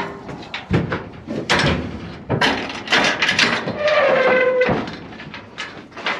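Irregular knocks and clanks of cattle hooves and metal panels as a Highland bull is worked into a metal stock trailer, with a brief drawn-out squeal about four seconds in.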